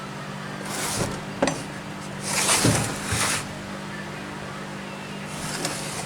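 Old Briggs & Stratton model FI single-cylinder engine being cranked over by hand without firing: a few short, rasping pulls, the loudest about two and a half seconds in, with a click near the start. The engine turns over iffily, which the owner puts down to the flywheel magnets hanging up on the armature.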